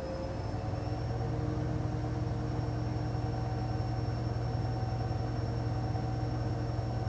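Electrolux washing machine running: a low motor hum with a thin high whine, rising slightly in pitch in the first second and then holding steady.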